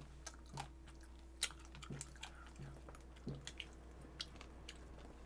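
Quiet chewing and soft mouth sounds of people eating, with small clicks scattered through.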